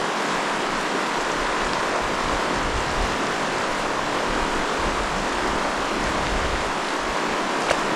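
Steady rush of river rapids, an even wash of flowing water, with a single short click near the end.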